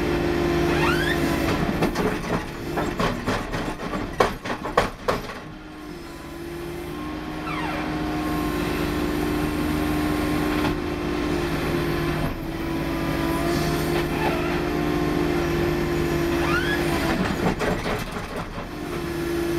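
Case 440 skid steer's diesel engine running steadily under load, with a flurry of irregular sharp clanks and knocks a couple of seconds in, typical of the breaker hammer striking and working the asphalt. Short rising squeals come through now and then.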